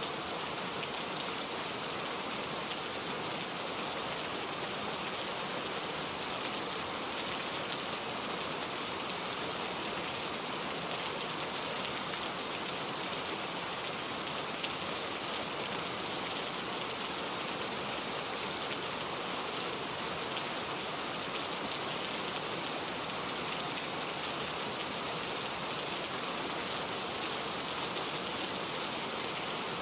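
Steady rain falling, a dense even hiss of drops with fine pattering.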